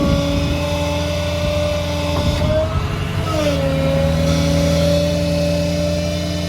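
Service truck's engine running with the whine of its hydraulic system as the outriggers are worked by hand levers; the whine sags in pitch about halfway through as the load changes, then settles.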